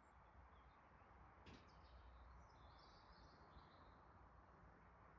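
Near silence: faint background noise, with a soft click about a second and a half in and a few faint high bird chirps around the middle.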